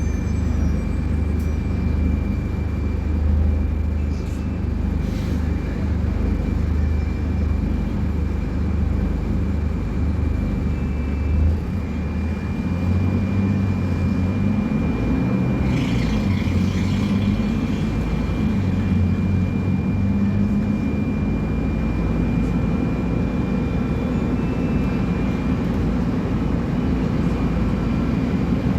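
Diesel engine of a Scania K250UB city bus running continuously, with a steady high whine over it; the engine note changes about twelve seconds in.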